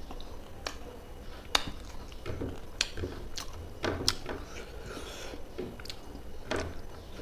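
Close-miked chewing of rice and fish curry, with wet mouth smacks and sharp clicks every second or so. Soft squishing as fingers mix rice and curry on a plate.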